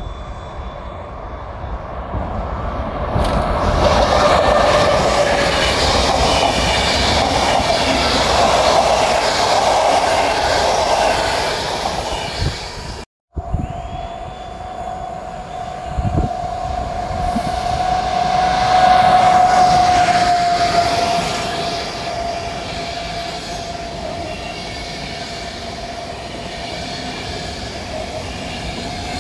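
Trains passing through a railway station: a train runs by with wheels clattering on the rail joints. After a cut, another train's wheels squeal in one long steady high tone that rises briefly about two-thirds of the way through.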